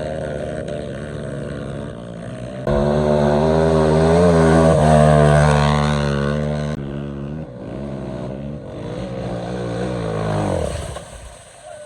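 Trail motorcycle engines revved hard and held while in neutral. The pitch steps up about three seconds in, drops back around seven seconds, and fades out near the end.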